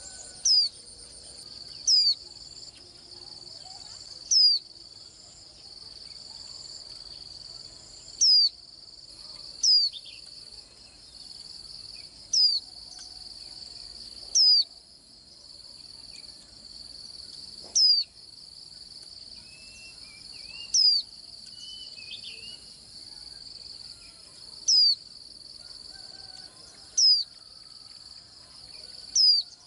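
White-eye giving short, loud calls that slide downward, one every two to three seconds, over a steady high-pitched insect trill.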